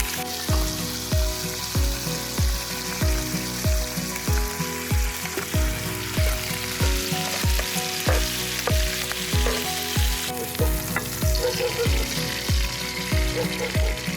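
Steak sizzling as it grills over a campfire, under background music with a steady thumping beat about twice a second and held chords.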